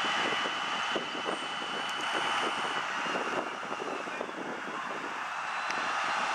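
Peterbilt 357 water truck running its pump, with the rushing spray of its long-throw water cannon: a steady roar that dips slightly about midway.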